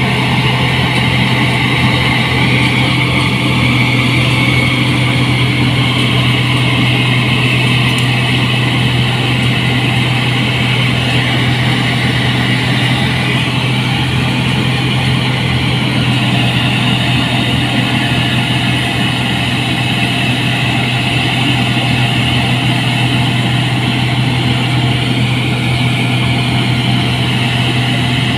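New Holland 8060 combine harvester running steadily: a constant engine drone with a steady hiss of machinery above it.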